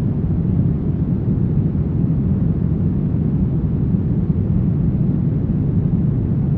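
Brown noise: a steady, deep rushing hiss that is strongest in the low end and falls away in the highs, unchanging throughout.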